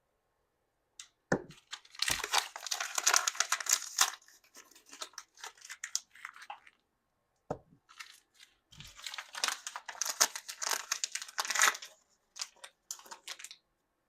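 Crinkly plastic wrapping of Mini Brands toy packs being torn and crumpled in two long bursts, with a few light knocks from handling.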